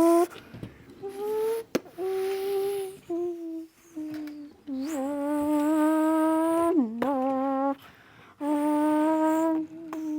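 A young boy imitating car engine noises with his voice: held humming notes that climb slowly in pitch like an engine revving, broken by short pauses, with a sudden dip and wobble in pitch late on.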